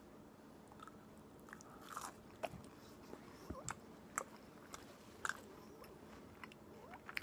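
A person chewing a bite of grilled tuna melt sandwich on toasted bread, with scattered small crunches and mouth clicks at irregular intervals.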